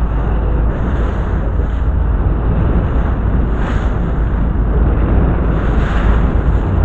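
Wind buffeting the microphone aboard a moving boat, a heavy steady rumble with water rushing past. The hiss swells briefly twice, a little past halfway and near the end.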